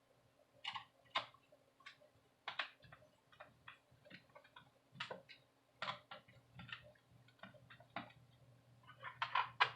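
Faint, irregular light clicks and taps of small screws and plastic laptop parts being handled, about one or two a second, over a faint steady hum.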